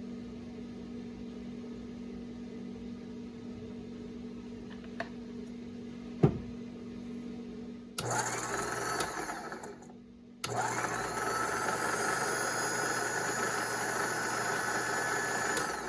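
Ramsey 12,000 lb worm-gear winch's electric motor run on the bench: it starts abruptly and spins for about two seconds, stops, then runs again for about five seconds. Before it, a steady low hum and a single sharp knock.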